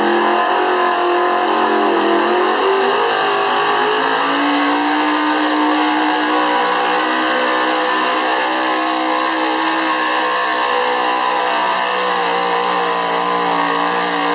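1971 Chevy 4x4 pulling truck's engine running wide open, dragging the weight sled down the track. Its pitch climbs over the first few seconds and then holds high and steady under heavy load for the rest of the pull.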